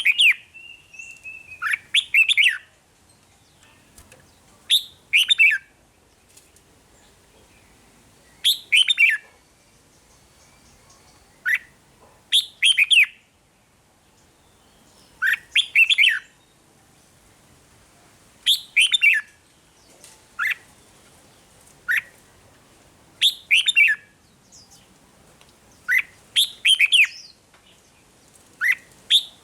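Red-whiskered bulbul singing: short phrases of a few quick, bubbling notes, repeated about every three seconds, with single short notes between them.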